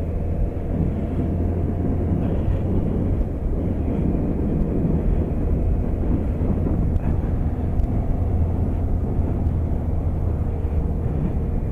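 BMW K1200RS motorcycle on the move: the inline-four engine running at a steady cruise under a constant rush of wind, an even low rumble with no revving.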